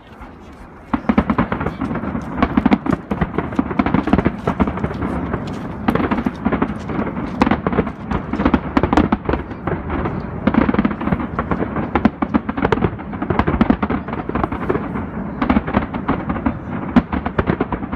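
Fireworks display barrage: aerial shells bursting in quick, overlapping bangs and crackles, setting in about a second in and keeping up without a break.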